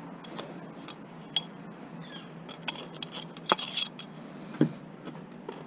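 Scattered light metallic clicks and clinks of scrap metal parts being handled, with a quick cluster of taps about three and a half seconds in.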